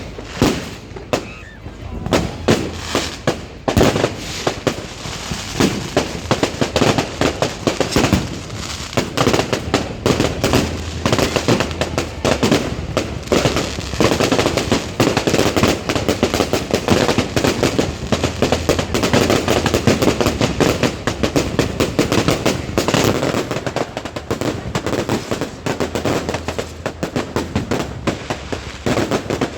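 Fireworks going off in a dense, continuous barrage of rapid cracks and bangs, with no pause.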